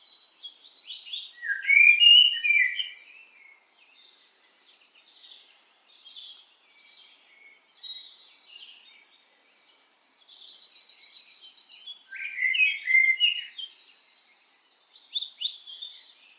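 Several small songbirds singing: varied chirps and warbled phrases, loudest about two seconds in, with a fast, even trill from about ten to twelve seconds in, followed by more song.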